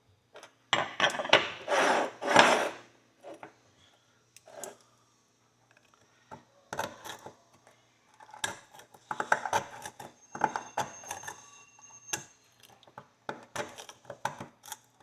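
A knife blade scraping and picking packed dirt out of the groove of a small pony horseshoe, metal scraping on metal. A dense run of scrapes comes in the first couple of seconds, then scattered clicks and short scrapes.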